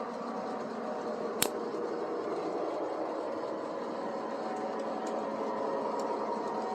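Model GG1 electric locomotive running along the track with a steady whirring rumble, and one sharp click about a second and a half in.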